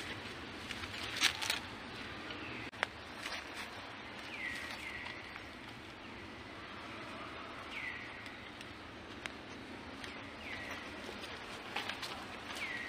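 Outdoor ambience with a bird giving a short falling whistled call about five times, a few seconds apart. A few sharp clicks or taps come in the first three seconds.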